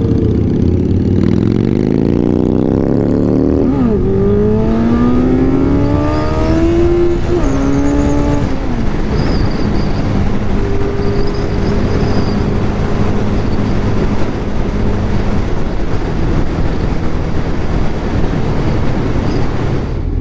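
1996 Kawasaki ZX-11's inline-four engine revving up hard under acceleration. It shifts up twice, about 4 and 7.5 seconds in, the pitch dropping at each change and climbing again. After that comes a steady rushing of wind and engine noise at speed.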